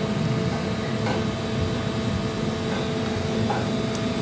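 Steady mechanical hum of workshop machinery, with a few faint clicks.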